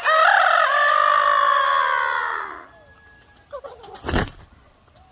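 A rooster crowing: one long crow, held for about two and a half seconds and falling away at the end. A brief thump follows about a second and a half later.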